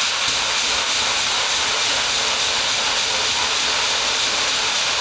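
Jet engine mounted on a golf cart running steadily: a loud, even rushing hiss.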